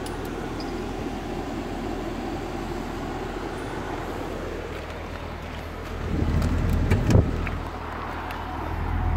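Supercharged 6.2-litre V8 of a 2010 Cadillac CTS-V idling steadily, growing louder from about six seconds in. There is a single sharp knock a little after seven seconds.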